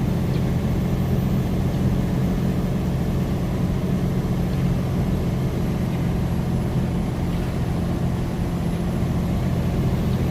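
Semi truck's diesel engine running steadily under way, a constant low drone with road noise, heard from inside the cab.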